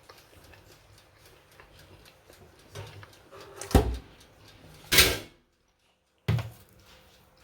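Kitchen handling noises: a few clunks and knocks, the loudest a sharp knock about four seconds in, then a short rushing scrape a second later. About a second of dead silence follows, then another knock.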